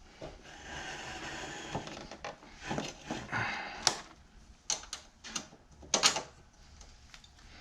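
Rubbing and scraping for a couple of seconds, then a handful of sharp clicks and knocks, as a scooter's rear shock absorber is worked into place on its mounts.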